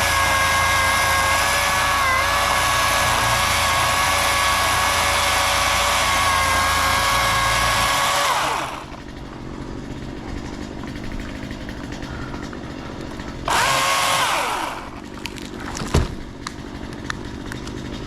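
Chainsaw cutting a tree limb, running at a steady high whine for about nine seconds and then releasing with a falling pitch as it winds down. A second short burst comes about thirteen seconds in, also winding down, and a single sharp knock follows near the end.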